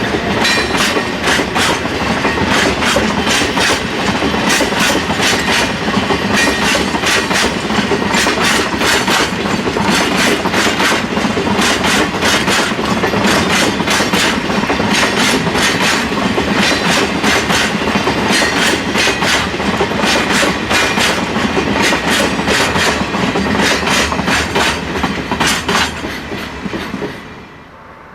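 Railway wagons rolling past, their wheels clicking rapidly over the rail joints in a steady clickety-clack. The sound drops away suddenly near the end.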